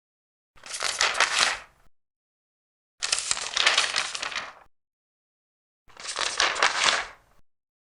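Large paper pages being turned, three times: each turn is a crisp rustle and crackle of paper lasting about a second and a half, with dead silence between turns.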